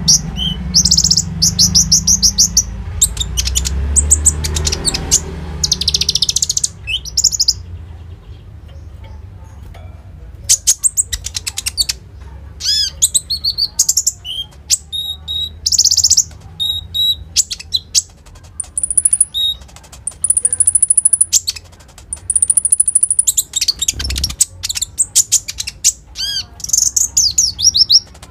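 Konin songbird singing in bursts of rapid high chirps and rattling trills, with a short pause a third of the way in.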